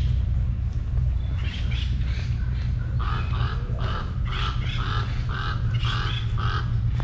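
A bird calling, a series of about eight short harsh notes at roughly two a second that starts about three seconds in, over a steady low rumble.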